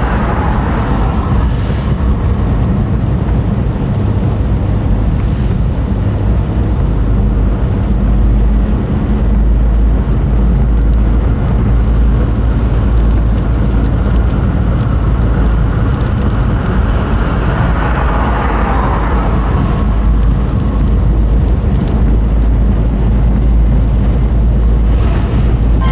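Car driving along a road: a steady low rumble of road and engine noise, with a hiss of tyres on the road that swells and fades about three quarters of the way through.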